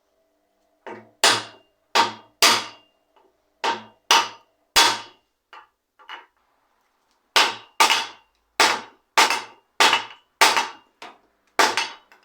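Repeated hammer blows, about two a second, in two runs with a short pause midway, each strike sharp and followed by a faint ring.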